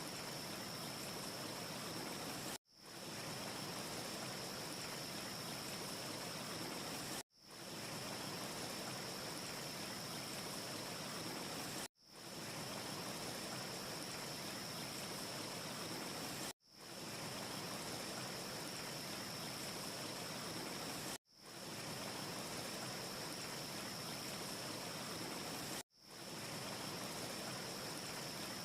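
Steady, even hiss of a looped wind ambience with a thin high whistle held in it. It cuts out abruptly about every four and a half seconds and fades back in, the short loop repeating six times; no fire crackles stand out.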